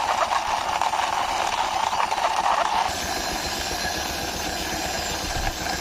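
A steady engine-like running noise, strongest in a mid-pitched band for about the first three seconds, then evening out into a broader, even hiss.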